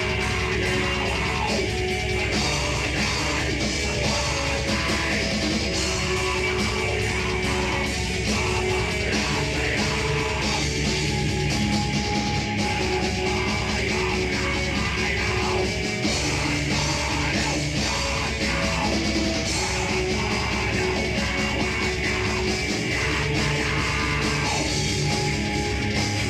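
A rock band playing live, steadily loud with no breaks.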